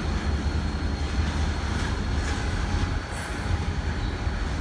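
Freight train rolling past with a steady low rumble of steel wheels on the rails, with a few faint ticks over it.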